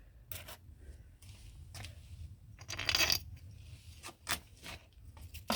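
Light clicks and a short clatter of small hard objects being handled, with a brief louder rattle about three seconds in.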